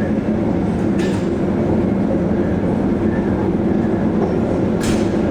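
Steady low rumble aboard a freight ferry in a force-9 gale, the ship's machinery and hull working in heavy seas. Two short, sharp hissing noises break through, about a second in and near the end.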